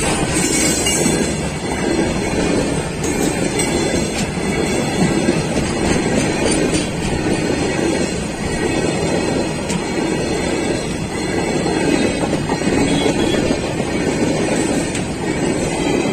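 Freight flat wagons loaded with concrete sleepers rolling past close by: steel wheels running on the rails in a loud, steady noise.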